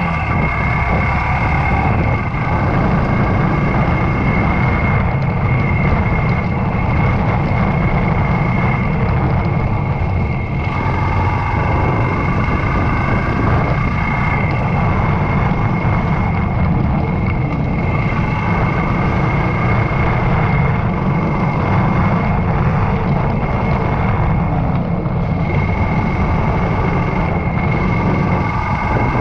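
Yamaha YBR125's single-cylinder 125 cc four-stroke engine running steadily while the motorcycle is ridden, with a steady whine on top.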